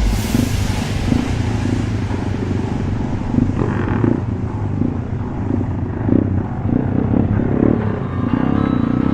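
Pit bike engine running while being ridden, a dense low rumble with uneven surges of throttle.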